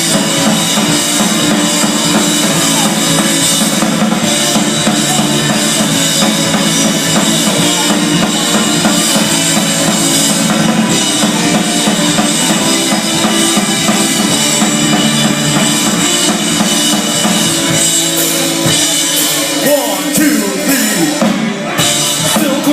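Live rock band playing an instrumental passage, with the drum kit prominent.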